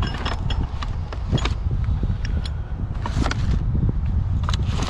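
Scattered knocks and clatter of junk being handled and moved around in a curbside pile, over a steady low rumble.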